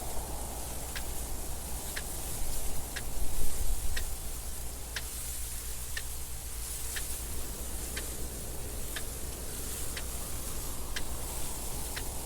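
A clock ticking steadily, one tick a second, over a constant wind noise with a low rumble and a high hiss that swells briefly a few seconds in.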